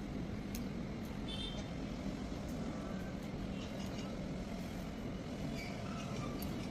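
Steady low background rumble of outdoor ambient noise, with a few faint high chirps over it.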